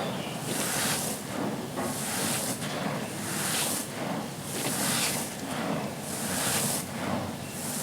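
Dry, grainy charcoal being crushed and crumbled, a gritty crunching hiss that swells in repeated surges about once a second.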